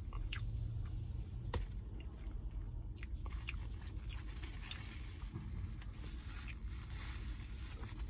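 Close-up biting, chewing and crunching of a crispy fried chicken sandwich: a scatter of sharp crisp clicks that comes thicker in the second half.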